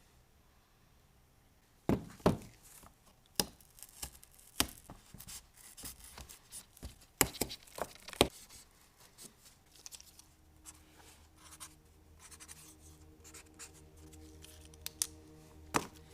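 Hand work on engine parts at a workbench: a run of sharp, irregular clicks and knocks with light scraping, from about two seconds in to about eight seconds in. Quiet background music comes in about ten seconds in, with one more knock near the end.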